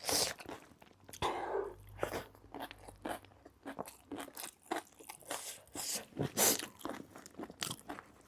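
A person chewing crunchy food, with many short crunches of biting and chewing in quick succession.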